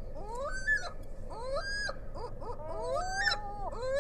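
Gulls calling, several birds overlapping, each call a pitched cry that rises and then levels off, about one call a second.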